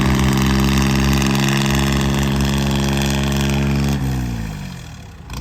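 Tractor diesel engine running steadily under high revs, then about four seconds in its pitch falls and the sound dies away as the engine winds down.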